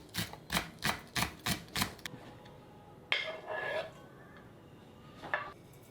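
Kitchen knife chopping food on a cutting board in steady strokes, about three a second, stopping about two seconds in. A short scraping rub follows, then a single knock.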